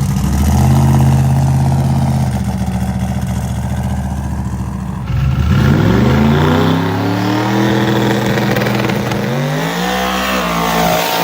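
Drag car's engine held at high revs during a long burnout. About five seconds in the pitch dips, then climbs as the car pulls away, and it rises again near the end.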